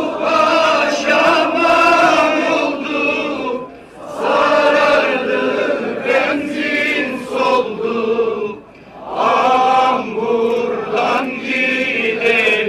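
A crowd chanting a slogan in unison, the same phrase coming round about every four to five seconds with a short break between repeats.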